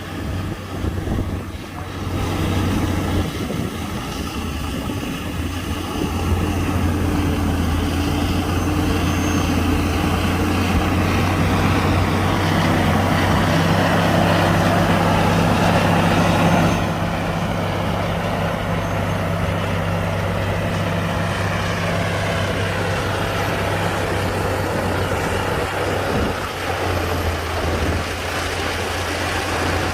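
Heavy diesel earthmoving machinery running and working under load, with steady engine drone and a rougher, louder stretch in the middle that eases off abruptly a little past halfway.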